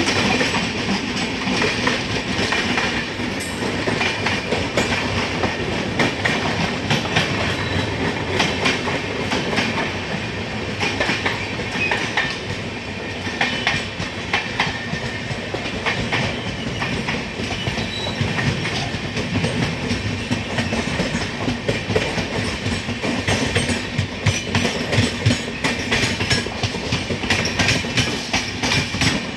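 Passenger train rolling along the track, its wheels clicking rhythmically over the rail joints above a steady rumble of running gear.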